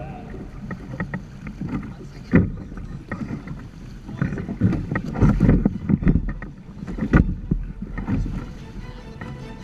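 Water splashing and slapping against the hull of a sailing Hobie Tandem Island trimaran, with wind buffeting the microphone. It comes as an uneven rush with irregular knocks, the sharpest about two and a half and seven seconds in.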